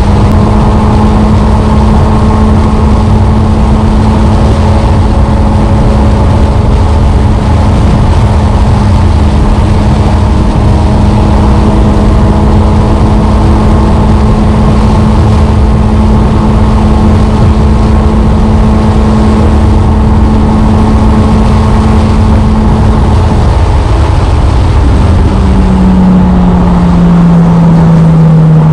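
Motorcycle engine running at a steady pace while riding, over a heavy low rumble. Near the end the engine note drops in steps and keeps falling as the bike slows.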